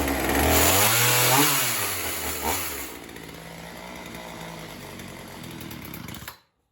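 Poulan Pro 4620 two-stroke chainsaw revving up and back down, then settling to a steady idle about three seconds in, and cutting out suddenly near the end.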